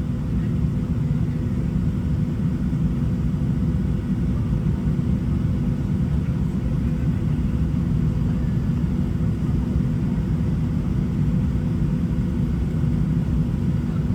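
Steady low rumble of a Boeing 737-700's cabin, with a faint steady hum over it and no change in level.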